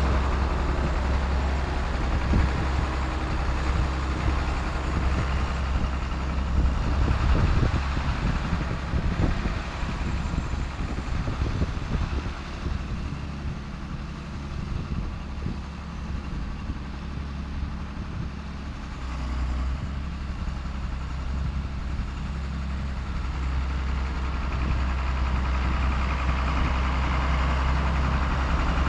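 John Deere 4840 tractor's six-cylinder turbo diesel running steadily as the tractor drives over loose fill dirt to pack it down. It eases off for several seconds in the middle, then pulls louder again.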